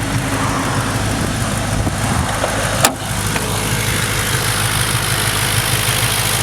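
Audi S4's 4.2-litre V8 idling steadily through catless Milltek downpipes and an aftermarket cat-back exhaust, with a single sharp click about three seconds in.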